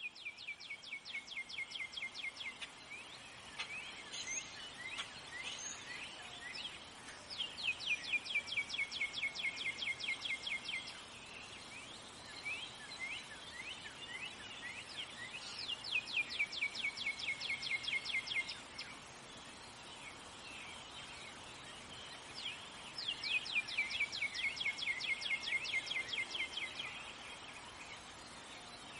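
A bird singing a fast trill of falling chirps, four times, each trill lasting about three seconds, with scattered single chirps in between, over a steady hiss of outdoor ambience.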